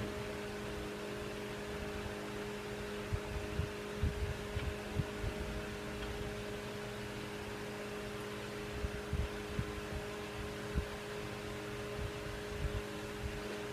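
Steady machine hum with a few fixed tones, with scattered soft low knocks and thumps from handling.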